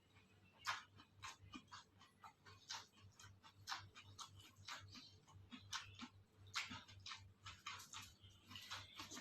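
Faint, close-up chewing of a person eating: irregular soft clicks and small crunches, a few a second.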